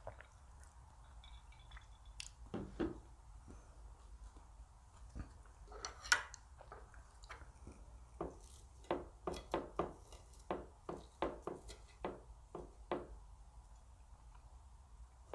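Eating sounds at a table: utensils clinking and tapping on dishes, with a run of short, sharp sounds about two a second in the second half.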